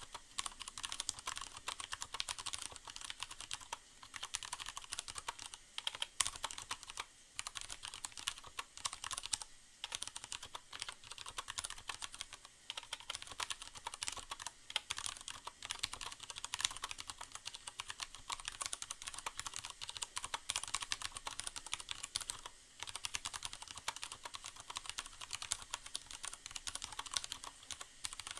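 Fast, continuous typing on a Leopold FC750R mechanical keyboard with tactile, non-clicky Cherry MX Brown switches and a sound-absorbing pad inside the case: a dense patter of keystrokes with a few brief pauses, the longest about ten seconds in.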